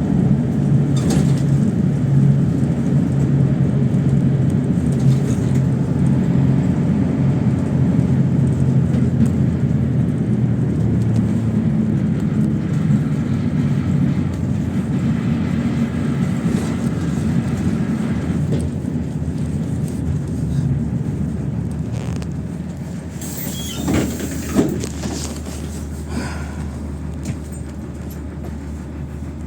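PAZ-32054 bus engine running steadily under way, with road noise and rattles. The drone eases off about three-quarters of the way through as the bus slows, and a brief squeak and a couple of knocks follow.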